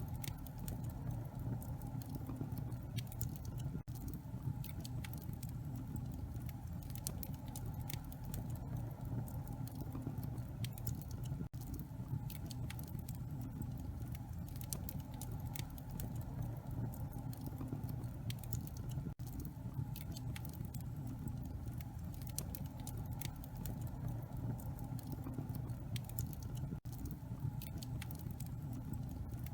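Wood fire in a fireplace crackling: many small irregular pops and ticks over a steady low rumble.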